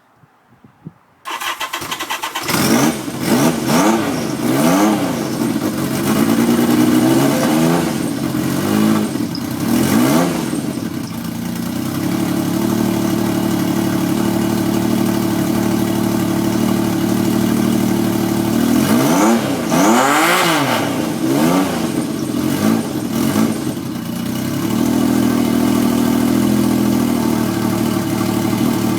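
1977 Yamaha XS750 three-cylinder engine with a Piper aftermarket exhaust, cold-started on the choke: the starter cranks briefly about a second in and the engine catches. It is revved up and down several times, then settles to a steady idle near the end.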